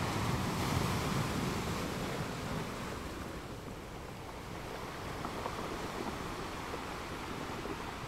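Sea surf: waves washing in as a steady rushing noise that swells in the first couple of seconds, eases off around the middle, then builds again.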